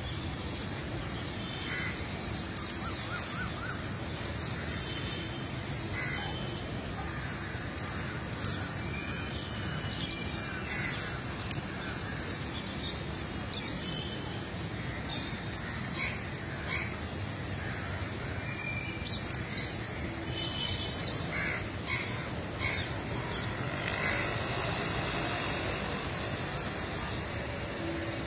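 Outdoor birds calling: many short, scattered calls and chirps over a steady background noise.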